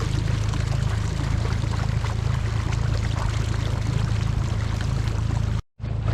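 Small boat motor running steadily at low speed, a constant low hum under water rushing and splashing along the hull. The sound drops out completely for a moment near the end.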